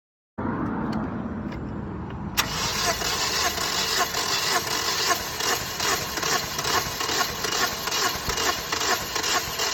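Toyota Corolla four-cylinder engine being cranked by the starter without catching, with an even pulsing rhythm that grows louder a couple of seconds in. It cranks but will not start because the timing chain was loose and the timing off, leaving almost no compression in the cylinders.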